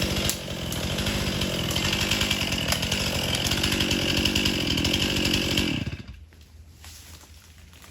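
Gas chainsaw running at high speed, cutting wood; it cuts off about six seconds in.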